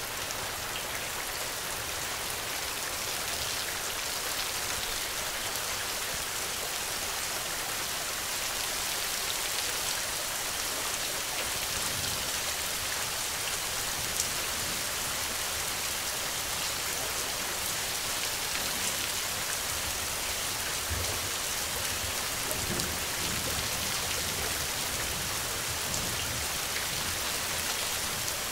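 Steady rain falling, with a constant hiss and single drops heard striking a surface.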